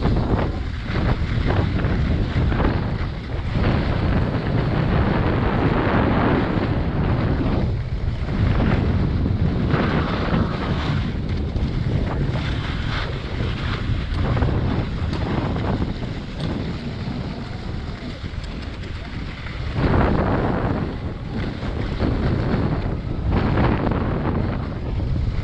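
Wind buffeting the microphone of a camera carried by a skier going downhill, mixed with the rush of skis sliding over snow, surging and easing every second or two.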